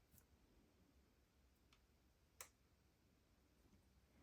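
Near silence: room tone with two faint clicks about two seconds in.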